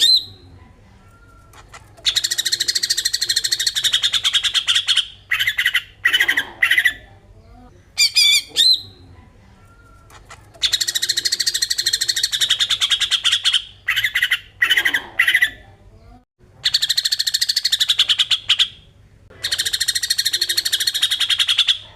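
Green leafbird (cucak ijo) singing its 'besetan' song: four long, fast, harsh rattling phrases of a few seconds each, with short clear whistled notes in the gaps between them.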